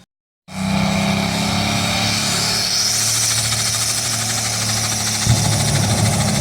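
Pulling tractor's engine running hard and steadily with a rapid, rough pulse, cutting in after a brief gap and getting louder about five seconds in.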